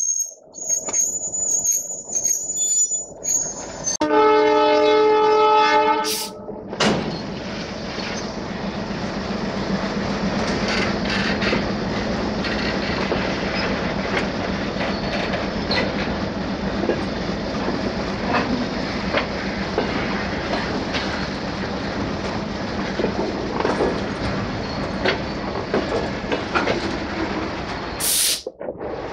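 Freight train locomotive horn sounding one chord for about two seconds, then the train running past: a steady rumble of wagons with the clicking of wheels over rail joints.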